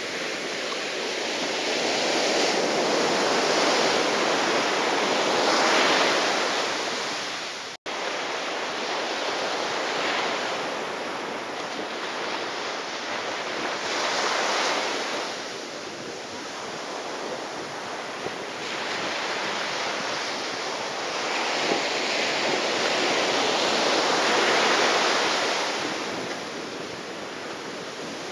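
Rushing surf and strong gusty wind in typhoon weather, swelling and fading in long surges, with a momentary dropout about eight seconds in.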